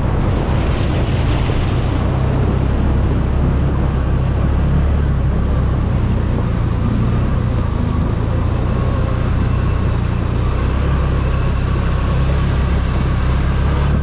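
ATV engine running steadily under way, with an even low drone.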